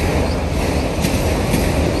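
Autorack freight cars rolling past on the rails: a steady rumble of steel wheels on track, with a faint wheel click about a second in.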